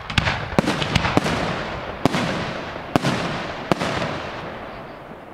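75 mm professional aerial fireworks shells going off in quick succession: about seven sharp bangs in the first four seconds, each followed by a rolling echo, the sound dying away near the end.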